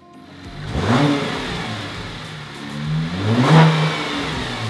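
Cadillac CTS VSport's 3.6-litre twin-turbo V6 starting through a freshly installed ZZP cold-air intake: it cranks and catches about half a second in, flares up and settles to idle, then is briefly revved a little past three seconds in. It runs smoothly with no squeal or whistle, the sign that the intake's hoses and clamps are sealed.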